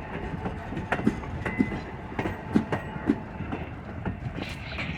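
Train passing, its wheels clicking and knocking over the rail joints at an uneven pace over a steady rolling rumble.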